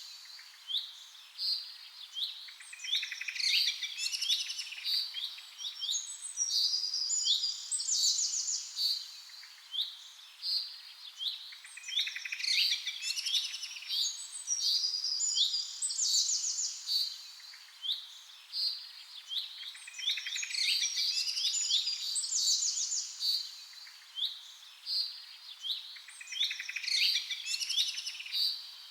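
Songbirds chirping and trilling without pause: many short, quick notes and fast rattling trills overlap, in high-pitched calls with nothing low beneath them.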